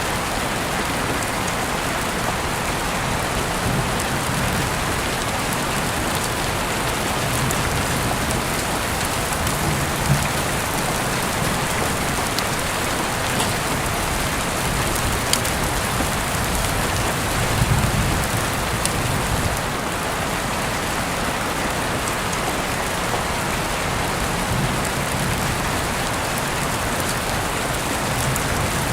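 Heavy rain falling steadily in an even, dense hiss, with a few sharper drop ticks now and then.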